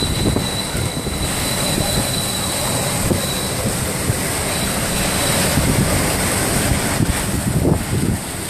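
Hurricane-force wind of about 120 mph sustained blowing loud and steady, with low gusts buffeting the microphone.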